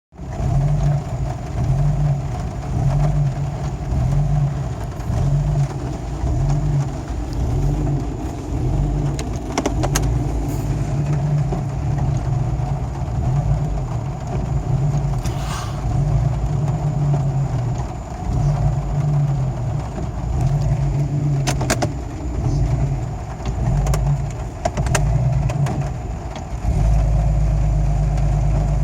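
Jeep Cherokee XJ's 4.0 inline-six idling roughly, its low engine note surging and dropping unevenly about once a second, with a few clicks along the way; near the end it settles into a steady, slightly louder run. The owner wonders whether the downstream O2 sensor wiring, torn up by the driveshaft, is the cause, with a new IAC already fitted.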